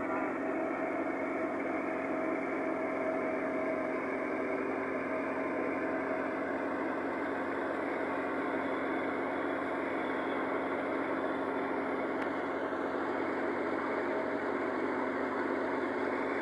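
Millat tractor's diesel engine running steadily while driving a wheat thresher, a constant mechanical hum with a few steady tones and no change in speed.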